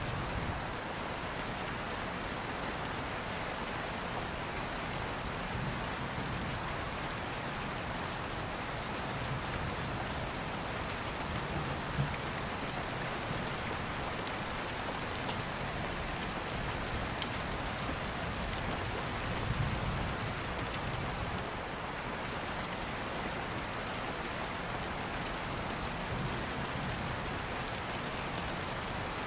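Steady rain falling, with a few sharp clicks now and then.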